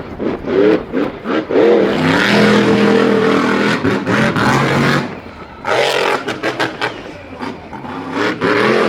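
Racing vehicle engine revving in several quick blips, then held at a steady high pitch for about two seconds before easing off into a rougher, rattling run.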